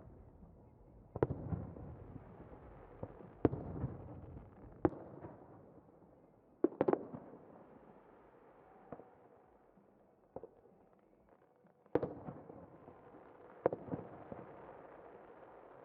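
Aerial fireworks bursting: about ten sharp bangs spaced a second or two apart, each followed by a rolling rumble and crackle that fades away. A quick cluster of bangs comes about seven seconds in, then a quieter lull before the bursts pick up again.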